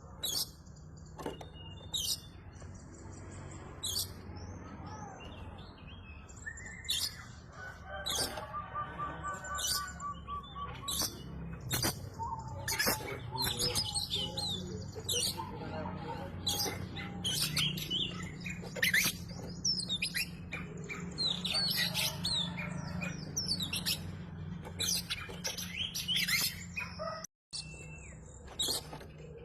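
Oriental magpie-robin (kacer) singing a long run of quick, varied chirps and whistles, the kind of song used as a lure to set other magpie-robins singing, over a steady low hum. The sound cuts out for a split second near the end.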